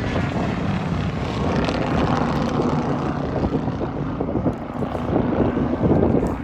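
A car on a race track going past at speed, its engine and exhaust running hard as a loud, rough rumble. It is loudest near the end, then drops off suddenly.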